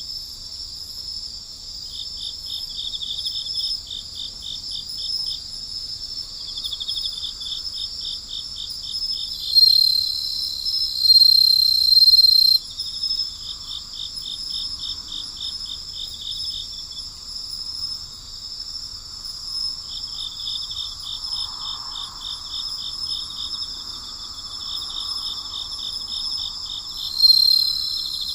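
Night insect chorus of crickets: rhythmic pulsed trills in bursts of a few seconds over a steady high-pitched ringing. A louder, steady high tone from a nearer insect comes in about ten seconds in for about three seconds, and again near the end.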